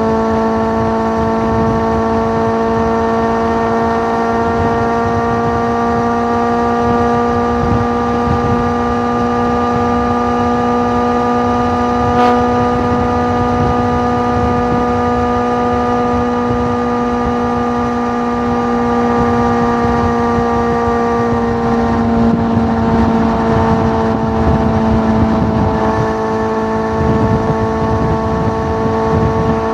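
Suzuki GSX650F's inline-four engine through an aftermarket Tiger exhaust, running at a steady engine speed with an even note. About three-quarters of the way through the note turns rougher and wavers slightly.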